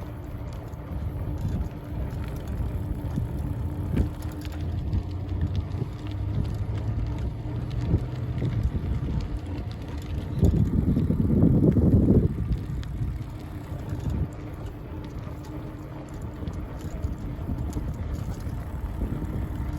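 Bicycle being ridden: a steady low rumble of the ride with a faint steady hum, and a louder rush lasting about two seconds near the middle.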